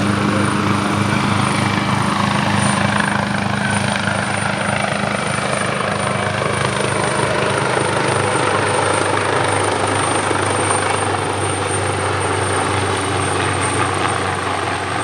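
Leonardo AW139 twin-turbine helicopter in flight: the steady beat of the main rotor over a high, constant turbine whine. Some of its pitch slides down over the first several seconds and the sound eases slightly as it moves away.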